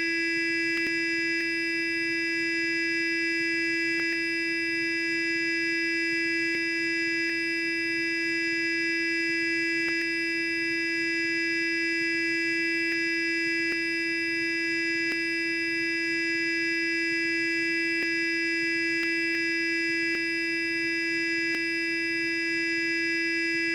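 Electric sonic toothbrush running continuously: a steady, unchanging buzz.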